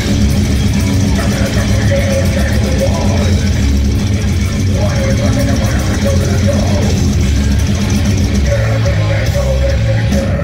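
Loud live heavy metal played by a band: distorted electric guitars and drums, with a shouted voice over the top.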